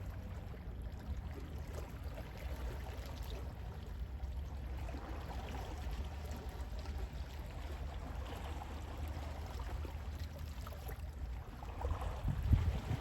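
Gentle sea waves washing in, a steady low rush that swells louder briefly near the end.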